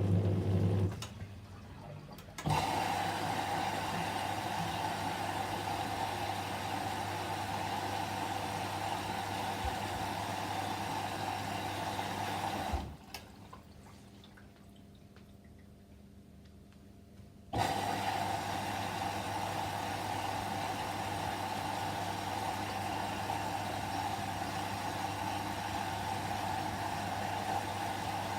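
Whirlpool washing machine filling with water for a 30° delicate cycle, water rushing in through the inlet valve. The flow cuts off about a second in and resumes shortly after. It stops again for about five seconds in the middle, then starts up again.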